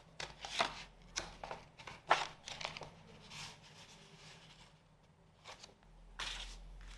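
Paper and plastic packaging of a model kit rustling and crinkling as it is handled, in a series of short rustles with the loudest about two seconds in.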